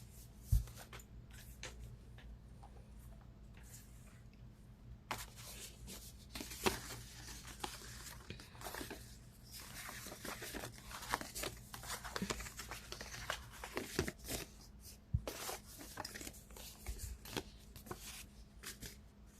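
Tarot cards being shuffled and handled by hand: faint papery rustling and quick card clicks, sparse at first and busier from about five seconds in.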